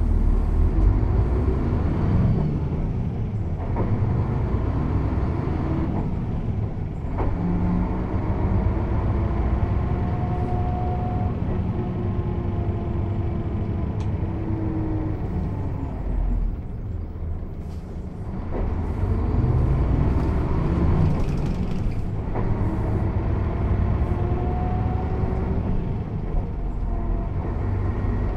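Mercedes-Benz O 407 bus's six-cylinder diesel engine pulling under load through a manual gearbox: the engine note climbs, drops away briefly at each gear change, then climbs again.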